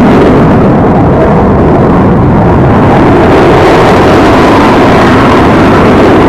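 Aircraft engine noise from a display aircraft at an air show: a loud, steady roar that slightly swells and fades.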